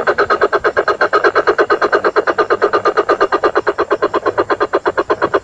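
Coucal (burung bubut) call played as a lure recording: a long, even, rapid series of notes, about ten a second.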